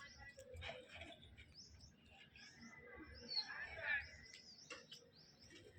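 Birds chirping: many short, high chirps and quick rising notes, busiest and loudest about three and a half seconds in.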